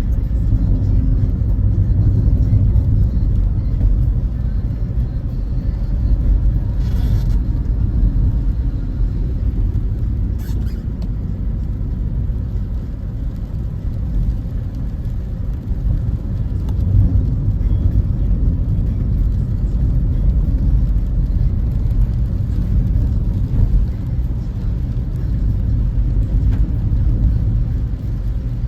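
Steady low rumble of a car driving at road speed, engine and tyre noise heard from inside the vehicle. Two brief faint hissy sounds stand out about seven and ten seconds in.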